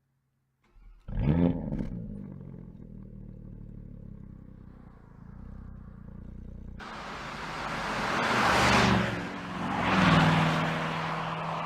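Porsche Panamera Turbo's twin-turbo V8 starting about a second in with a quick rising flare, then settling into a steady idle. Near the middle it cuts to the engine running much louder, swelling up twice.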